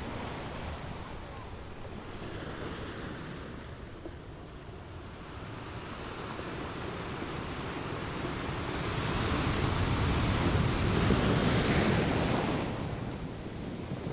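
Caribbean sea surf washing onto a beach: the rush of water slowly builds to one loud breaking wave about ten seconds in, then falls away. Wind on the microphone underneath.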